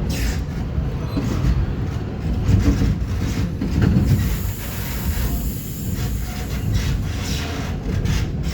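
Metra commuter train running on the rails, heard from inside the front cab car: a steady low rumble with scattered wheel clicks and bangs over the track.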